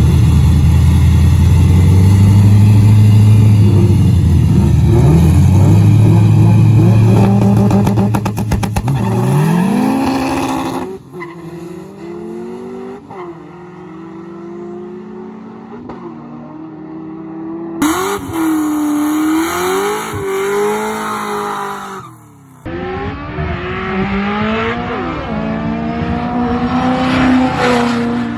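Supercharged LS3 V8 of a 2004 Pontiac GTO running loud at the start line, then launching and pulling away with a steeply rising note. After abrupt cuts it is heard from farther off on other drag runs, its note dipping and climbing through the gear shifts and then rising steadily near the end.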